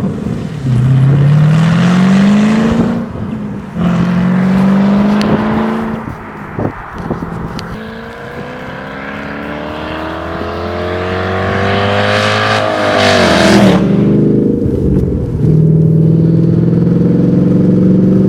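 S5's engine running loud with its exhaust cut off, revved repeatedly. Several short rises in pitch come first, then a long climbing rev about eight to thirteen seconds in that drops off sharply, then it holds at a steady raised speed.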